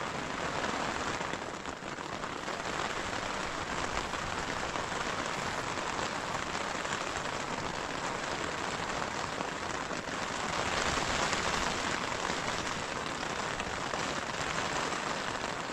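Heavy rain and strong wind beating on a tent, heard from inside it: a steady hiss of rain on the fabric that swells for a couple of seconds a little after ten seconds in.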